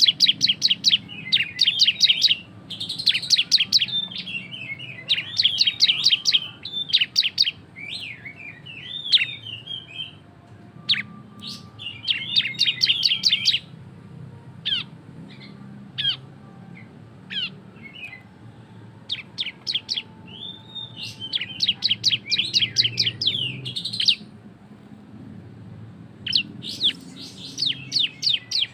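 A ciblek (prinia) singing its loud 'ngebren' song: bouts of rapid, sharp, high chips and short trills a few seconds long, broken by brief pauses.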